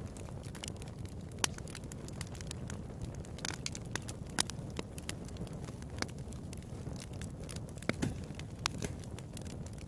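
Wood fire crackling in a fireplace, with sharp pops scattered through it, the loudest about one and a half, four and a half and eight seconds in, over a steady low rush of the flames.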